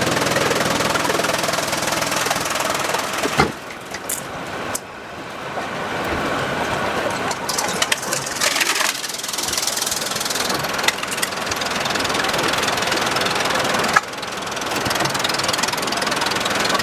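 Sawmill machinery and engines running: a loud, steady mechanical noise that changes abruptly about three and a half seconds in and again near the end.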